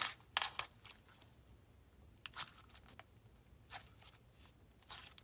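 Clear slime being squished and stretched by hand: scattered sticky crackles and pops, a few at the start, then sparse and irregular.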